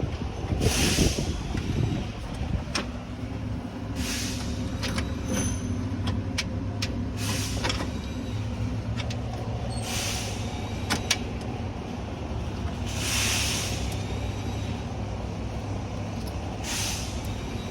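An engine running steadily at idle, with short hisses every three seconds or so and scattered light clicks.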